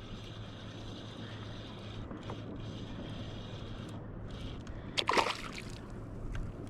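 Water lapping and sloshing against a kayak hull, with a brief louder splash about five seconds in.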